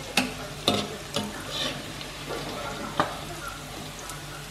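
Battered snapper pieces sizzling steadily in hot oil in a steel wok, fried golden and ready to lift out. Metal utensils knock and scrape against the wok four times in the first second and a half and once more about three seconds in.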